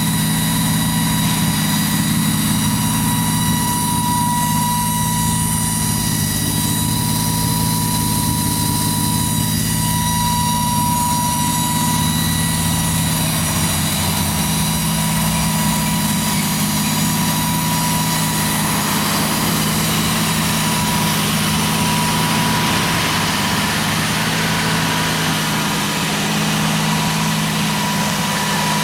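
Toyota 1JZ inline-six with a single-turbo setup idling steadily in a 1987 Toyota Cressida, with no revs; the engine is not yet tuned.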